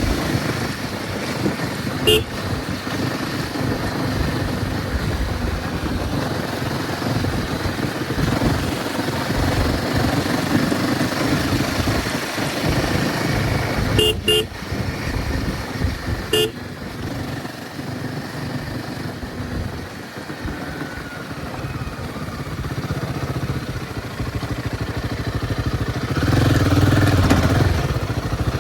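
Royal Enfield Himalayan 450's single-cylinder engine running on the move, with short horn beeps: one about two seconds in, a quick double beep around the middle, and another shortly after. The engine gets louder near the end.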